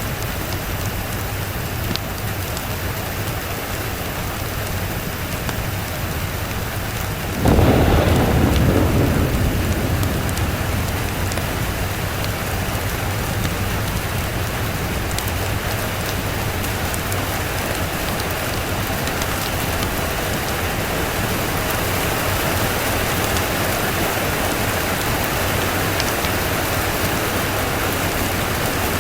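Steady rain, with a thunderclap about seven and a half seconds in that starts suddenly and rumbles off over several seconds.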